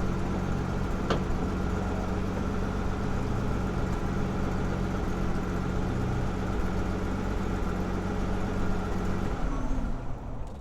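An AC Buckland's 2-litre straight-six engine running steadily, with one brief click about a second in. The sound drops in the last second and then cuts off.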